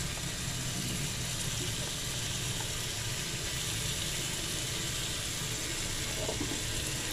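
Spice paste sizzling steadily as it fries in oil in a wok.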